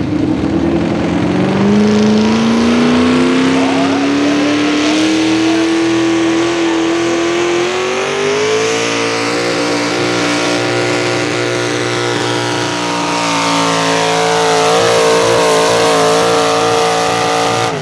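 Small-block V8 of a modified pulling tractor at full throttle dragging the weight sled, its pitch climbing steadily over the first several seconds, then holding, wavering near the end, and cutting off abruptly as the pull ends.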